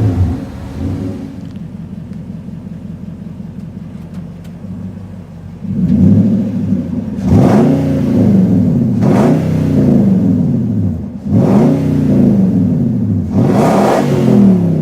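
2012 Nissan Titan's 5.6-litre V8 through a dual exhaust with a knockoff Flowmaster muffler, idling steadily, then revved five times in quick succession from about six seconds in, each rev climbing and falling back.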